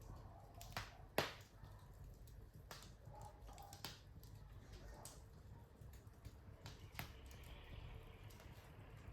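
Wood fire crackling in a fireplace: scattered irregular pops and snaps over a low rumble, with the sharpest pop about a second in.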